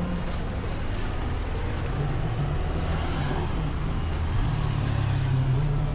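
Road traffic on a wet street: a vehicle engine running low under a steady hiss of rain.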